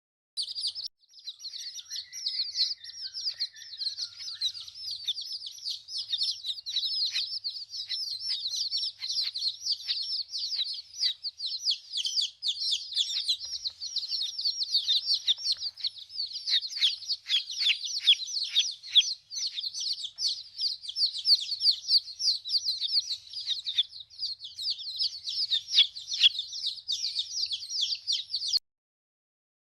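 Many small birds chirping together in a dense, unbroken chatter of short, high chirps, cutting off suddenly near the end.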